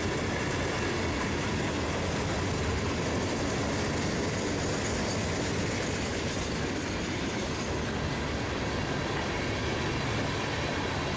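Freight cars of a long manifest train rolling past, steel wheels on the rails making a steady rumbling noise.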